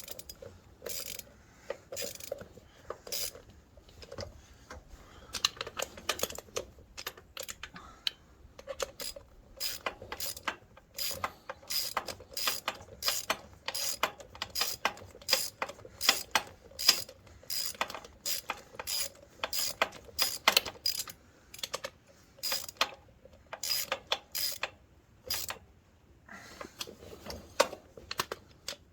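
Ratchet wrench clicking as self-locking nuts are run down and tightened, a long series of sharp clicks, sparser at first and then about two a second.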